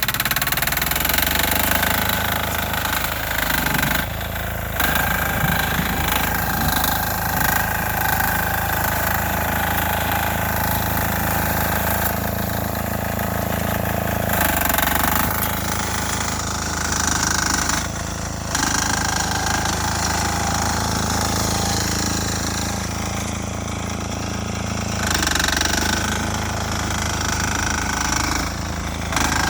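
Single-cylinder air-cooled 6 hp diesel engine of a Sears Suburban garden tractor running steadily under work, its level dipping briefly a few times.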